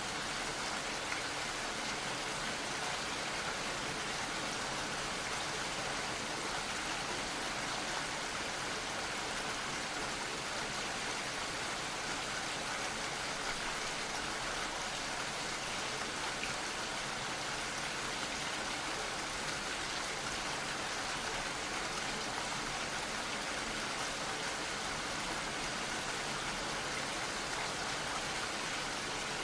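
Steady, gentle rain falling, an even patter of raindrops with no breaks.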